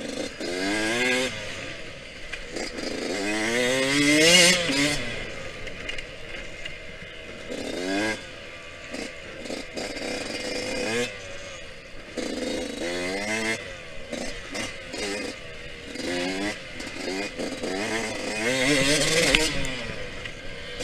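Yamaha YZ125X two-stroke dirt bike engine revving up and dropping off again and again as it is ridden hard, its pitch climbing through each gear. It is loudest about four seconds in and again near the end.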